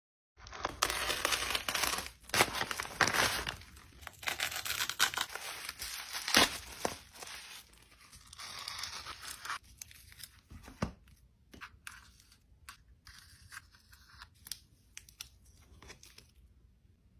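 Packaging being torn and crinkled open by hand, loudest over the first seven seconds, then thinning to quieter crinkles and small taps that stop shortly before the end.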